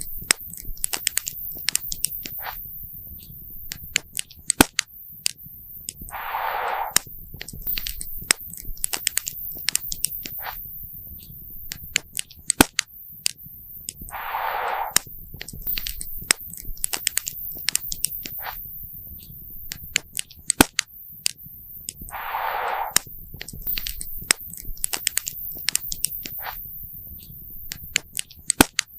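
Campfire crackling and popping, with frequent sharp pops of burning wood over a low rumble. A brief hissing rush comes back about every eight seconds, three times.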